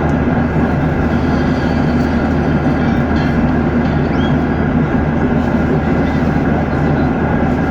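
Steady cabin drone of an airliner in flight: engine and airflow noise with a constant low hum, unchanging throughout.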